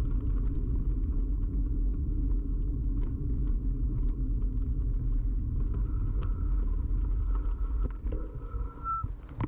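Ride noise picked up by a camera mounted on a bicycle: a steady low rumble of tyres and frame vibration, with many small rattling clicks. Over the last few seconds a thin high whine builds while the rumble eases.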